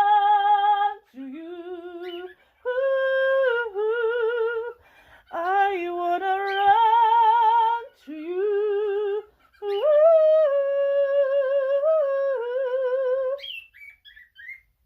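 A woman's soprano voice singing unaccompanied, long held notes with vibrato in several phrases with short breaks between them, the voice stopping about 13.5 seconds in.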